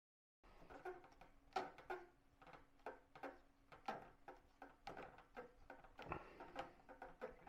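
Faint, irregular taps and clicks of fingers handling a drone's plastic body while adhesive neoprene pieces are pressed onto its legs. The sound starts abruptly just after the beginning.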